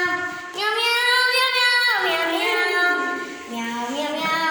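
A high voice singing long held notes that slide down in pitch between them.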